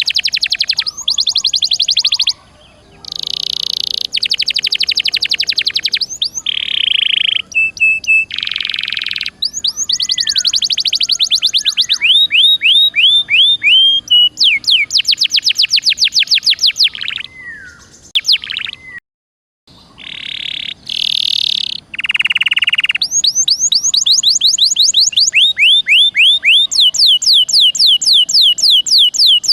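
Domestic canary singing a long, loud song of rapid trills: fast runs of repeated falling notes alternating with buzzy rolls. It breaks off completely for a moment a little past the middle, then carries on.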